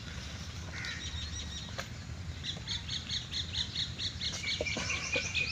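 Birds chirping outdoors: from a couple of seconds in, a run of short, high repeated notes, about four or five a second, joined near the end by a high held note, over a low steady background rumble.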